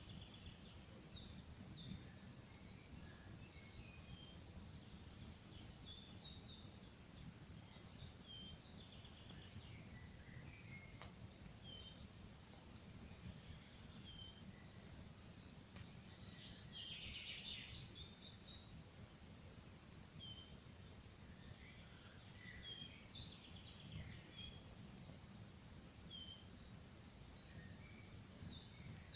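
Small songbirds chirping and singing faintly and continually, with a denser stretch of song about seventeen seconds in, over a steady low rumble.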